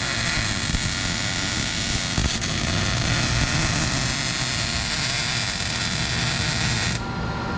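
Electric welding arc running a continuous bead on a steel console-mount bracket, a steady hiss that cuts off sharply about seven seconds in.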